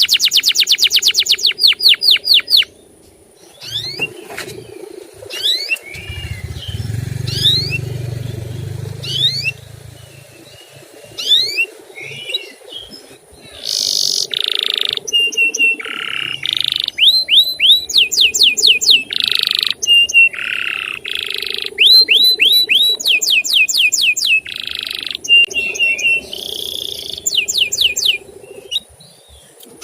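Male domestic canary singing: fast trills of rising chirps, repeated cuit-cuit notes and buzzy held notes in quick phrases. The song thins out with a brief pause a few seconds in, then turns dense again from about halfway.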